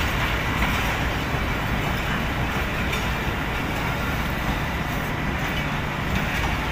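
Pakistan Railways passenger coaches rolling past along the platform as the train arrives, with a steady wheel-on-rail noise.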